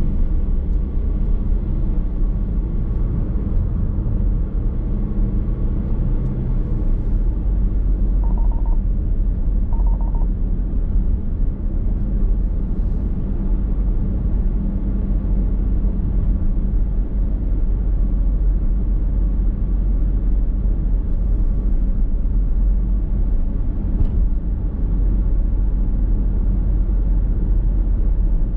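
Car driving at steady speed, heard inside the cabin: a constant low rumble of road and tyre noise. Two short beeps sound about a third of the way in, about a second and a half apart.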